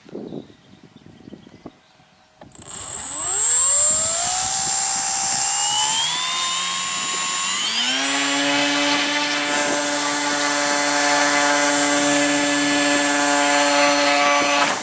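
Electric motor and propeller of an ASW 17 foam electric model glider starting up about two and a half seconds in, whining higher as it is throttled up in steps, then running at a steady speed with a high steady whistle over it.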